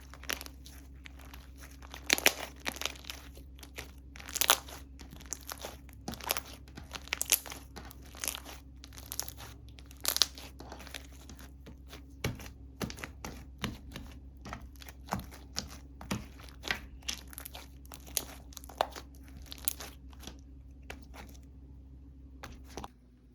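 Slime being squeezed and stretched by hand, giving irregular sharp pops and crinkly clicks, loudest in the first half and thinning out toward the end. A faint steady low hum lies underneath.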